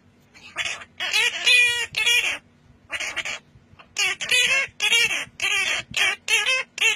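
A parrot calling over and over in short pitched calls, bunched two or three a second with brief pauses between the bunches.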